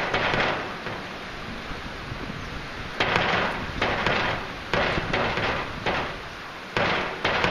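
Heavy rain falling, a steady hiss broken by repeated sudden surges of louder splashing noise that each fade within about a second.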